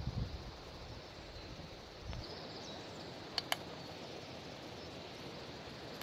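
Outdoor ambience: a steady hiss, with low wind-like rumbling on the microphone in the first two seconds and two sharp clicks in quick succession about three and a half seconds in.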